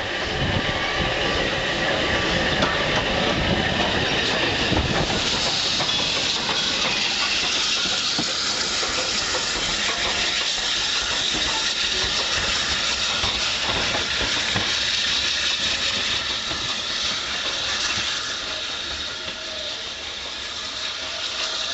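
A train running on the line, heard from aboard a carriage: a steady rush of wheel and rail noise with hiss and clicks over the rail joints. It grows quieter about eighteen seconds in.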